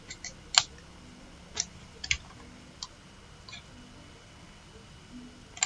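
Scattered single clicks of a computer mouse and keyboard, about seven over several seconds with one louder click under a second in, while a font size is being set in a word processor.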